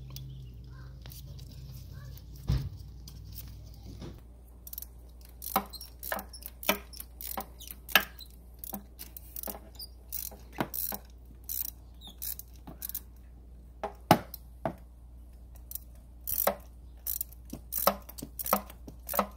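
Irregular sharp clicks and knocks of hands and tools working on a car engine as its ignition coil packs are taken off. A low steady hum stops about four seconds in.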